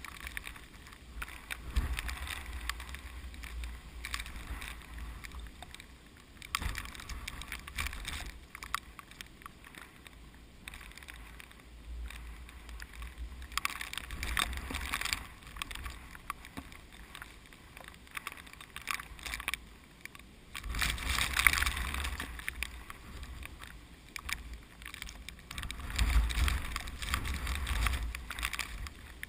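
Strong typhoon wind blowing in gusts, rustling a field of rice plants and buffeting the microphone with a low rumble. The strongest gusts come about two-thirds of the way in and again near the end.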